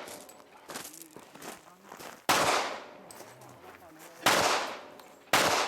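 Three shots from a pistol-caliber carbine, the first about two seconds in and the next two about two seconds and one second apart, each dying away in a short echo.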